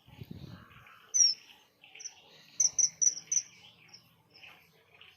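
Kingfisher calling: a series of short, high, downward-slurred chirps, with a quick run of four about halfway through.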